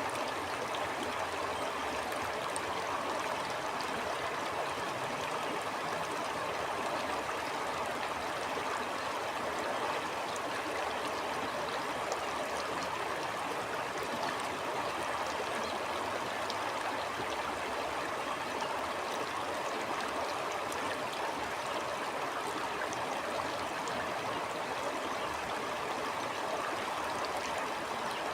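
Stream flowing steadily: a constant, even rush of water with faint trickling and gurgling.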